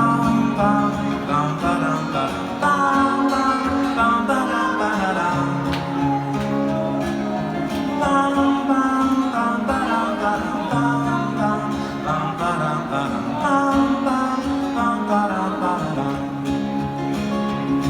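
Live acoustic band music led by plucked and strummed acoustic guitar, playing an instrumental passage.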